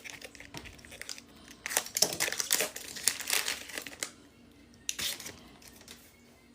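Foil Pokémon booster pack wrapper crinkling and crumpling in the hands as a pack is opened, in irregular crackles, loudest for a couple of seconds about two seconds in, with a short burst again about five seconds in.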